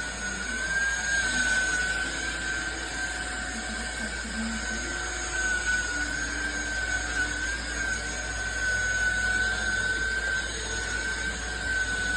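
Cordless stick vacuum motor running steadily, a high whine with a slight waver over a rush of airflow.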